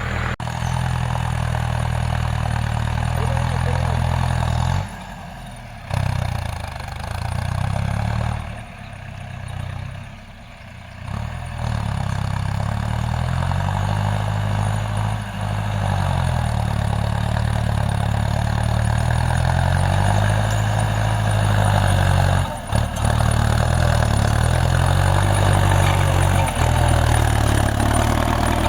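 Tractor diesel engine running under load while plowing, its engine speed rising and falling. The sound drops away briefly about five seconds in and again around nine to eleven seconds in.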